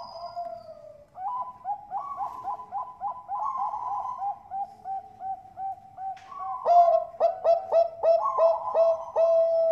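Zebra doves (Bangkok-type perkutut) cooing: quick runs of short, hooked coo notes, about four a second. About two-thirds of the way in, a louder series of coos begins and ends on a held note.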